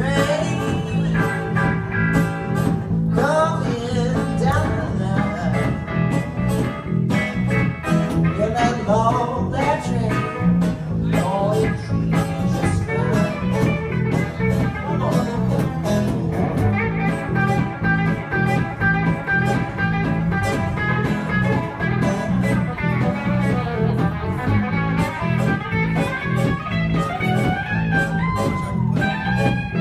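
Live blues band playing an instrumental break: a lead guitar solo with bending, sliding notes over a steady bass and drum groove.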